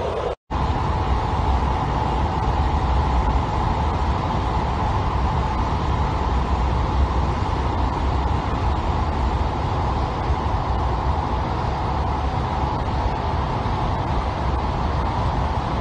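Steady rumble and hum of a moving SNCF TER double-deck passenger train, heard inside the coach as it runs along the line. The sound cuts out completely for a split second about half a second in, then carries on unchanged.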